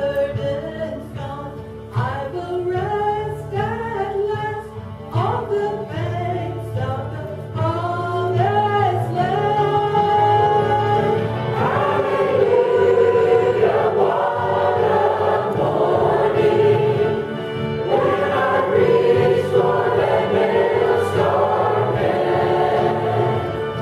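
Church congregation or choir singing a gospel hymn, with low accompaniment underneath; the singing becomes fuller and louder about halfway through.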